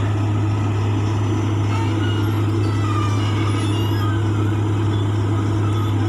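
Heavy diesel engine running steadily at constant speed, a deep even drone with no revving or load changes.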